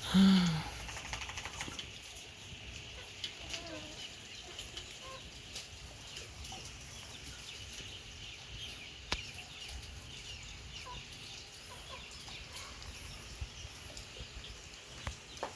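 Chickens clucking now and then, with one short, loud call right at the start.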